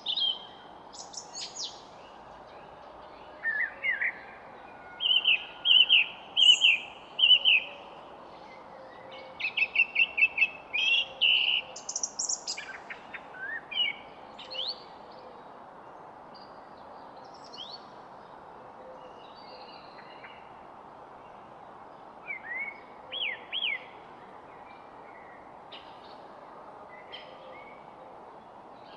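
Several songbirds singing and calling in short chirps, whistles and trills, busiest in the first half and again briefly near the end, over a steady soft background hiss.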